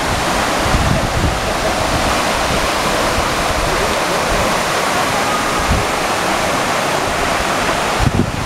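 Waterfall rushing in a loud, steady roar of falling water, with wind bumping on the microphone now and then.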